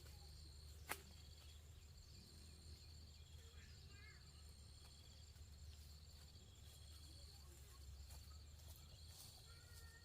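Near silence: faint rural outdoor ambience with high, pulsing insect calls repeating throughout and a single sharp click about a second in.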